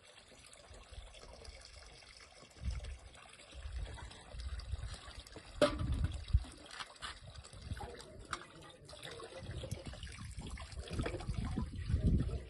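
Water trickling and splashing unevenly, busier in the second half, with two sharp knocks about six seconds in.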